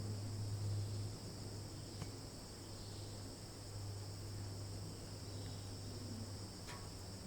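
Steady chorus of insects, crickets or cicadas, in two unbroken high-pitched bands, over a low steady hum that eases after the first second. A single short sharp sound, falling in pitch, comes near the end.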